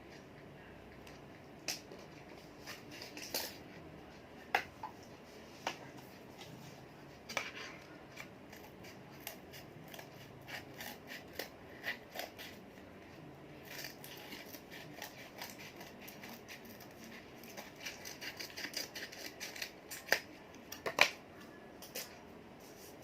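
Origami paper being handled and folded, with scattered crisp crinkles and taps that come thicker in the second half and peak in two sharp snaps near the end.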